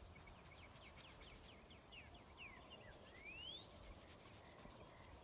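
Near-silent outdoor ambience with faint birdsong: a run of quick, short falling whistles, then a single rising whistle about three seconds in.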